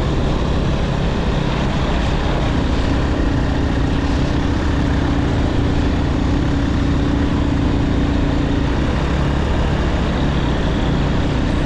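Motorcycle running at a steady speed: a continuous engine hum under dense road noise, with a steady higher tone that comes in about two seconds in and fades near the end.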